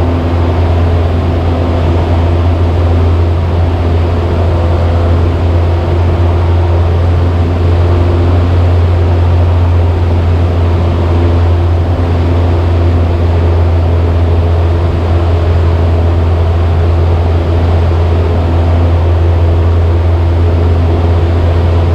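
Cessna 172's piston engine and propeller droning steadily in level flight, a constant low hum that never changes in pitch or loudness.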